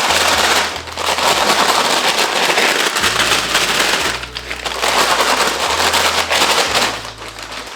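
Paper fry shaker bag shaken hard with fries and seasoning inside: loud crackling and rustling of the paper in long bouts, with brief lulls about a second in, around four seconds and near the end.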